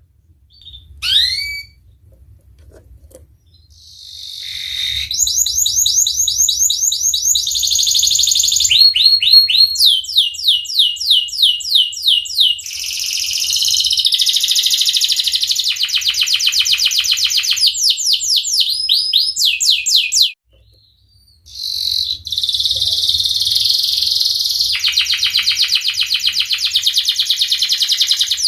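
Domestic canary singing a long, loud song of fast repeated-note trills and rolls, each run of notes shifting to a new pitch, after a short chirp about a second in; the song breaks off briefly about two-thirds of the way through and then resumes.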